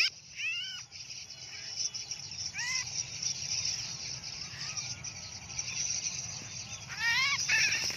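Small birds giving short arched chirps a few times, with a quick run of chirps near the end, over a steady high drone of insects.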